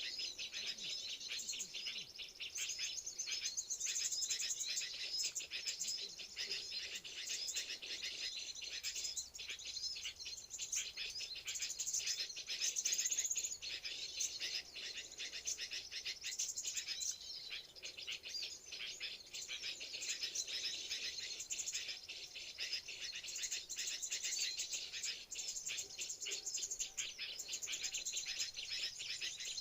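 Small songbirds chirping and twittering in rapid, dense high notes without a break.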